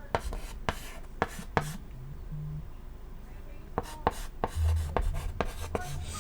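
Chalk tapping and scratching on a chalkboard while writing: a few sharp taps in the first second and a half, then a quicker run of taps from about four seconds in.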